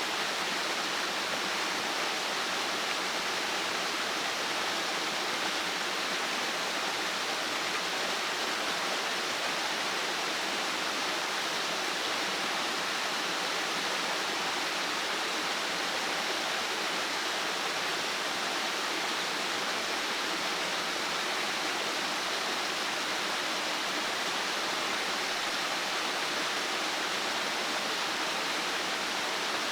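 Steady, even rushing of water with no separate strikes or changes.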